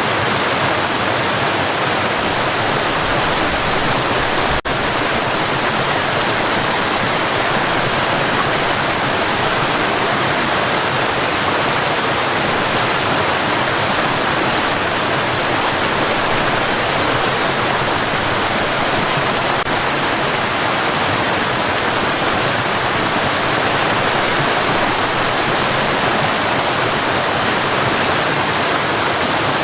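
Steady white noise: an even, unchanging hiss spread across the whole range, with a momentary dip in level about four and a half seconds in.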